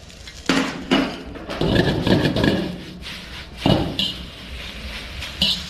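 A cooking utensil knocking and scraping against a frying pan as chowmein noodles are tossed and stirred: a few sharp knocks with a rattling scrape between them.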